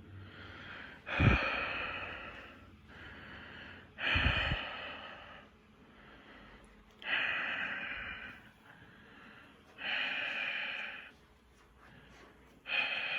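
A person breathing hard, with a loud, noisy exhale about every three seconds, five in all. The first two exhales open with a thump.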